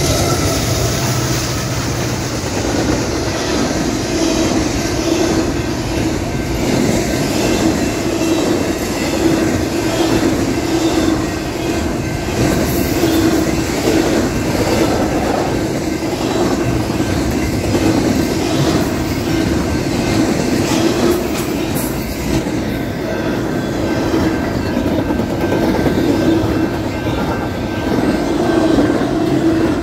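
Double-stack intermodal freight train passing close by: a steady rumble of steel wheels on rail with scattered clicks and thin, steady high-pitched tones. A mid-train diesel locomotive goes by at the start, and its low engine sound fades within the first couple of seconds.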